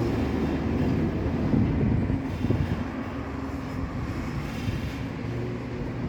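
Istobal M12+ rollover car wash machine running, a steady low rumble with a faint hum.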